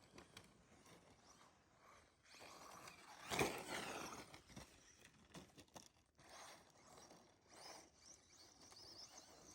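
Electric Tekno SCT410SL RC short-course truck running through snow, faint, with a high whine that rises and falls and tyres churning through snow. The loudest pass comes about three and a half seconds in.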